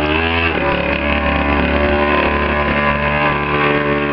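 Small custom chopper motorcycle's engine running steadily, with a brief dip and recovery in pitch about half a second in.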